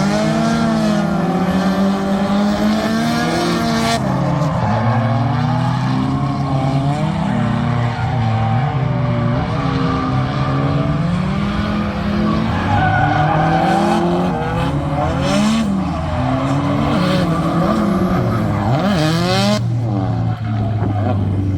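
Drift car engine revving hard, its pitch rising and falling over and over as the throttle is worked, with tyre squeal under it.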